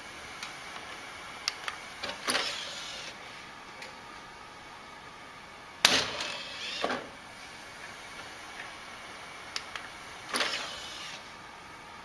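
Three short scraping swishes a few seconds apart, with light clicks between them: a cat batting at a cord and the cord dragging and whipping across a wooden parquet floor.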